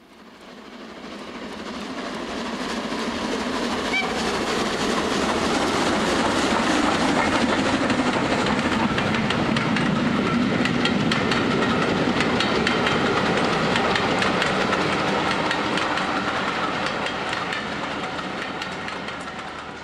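A train passing on rails: a rumble that swells up over the first few seconds, then a fast run of wheel clicks over the rail joints, fading away near the end.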